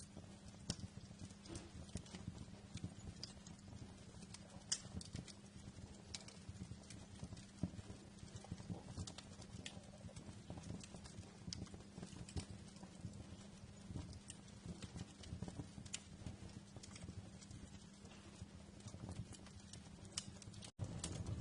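Wood fire crackling, with irregular sharp pops and snaps over a low steady rumble of flames. The sound cuts out for an instant near the end, then comes back a little louder.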